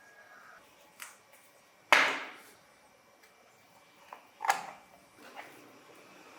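A few sharp knocks and clicks of small hard objects or tools being handled, the loudest about two seconds in, with a short ringing tail.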